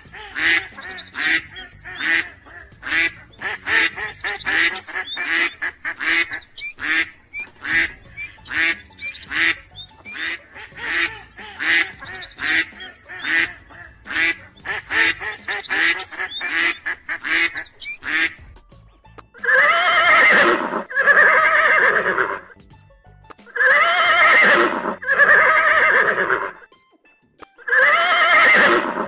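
Mallard ducks quacking in a quick run of short calls, about two a second. About two-thirds of the way in, they give way to horses neighing: long whinnies, one after another in pairs.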